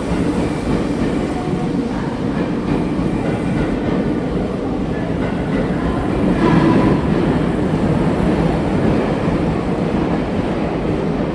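Electric commuter train pulling out of a station: a steady rumble of wheels on the track, a little louder about two-thirds of the way through.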